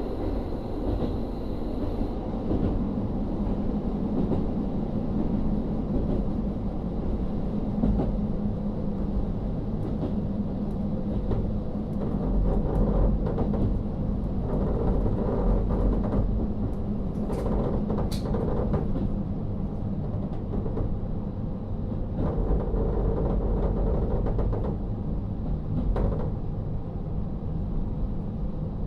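Inside a KiHa 40 diesel railcar under way: the N-DMF13HZB diesel engine drones steadily beneath the floor over the low rumble of wheels on track. A few sharp clicks stand out past the middle and again near the end.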